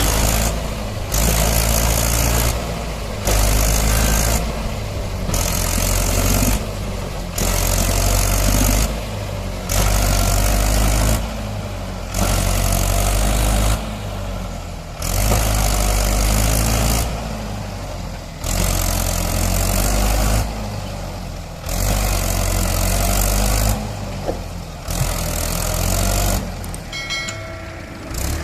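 Mahindra 575 tractor's diesel engine running loudly while hauling a loaded trolley, its sound swelling and easing every second or two.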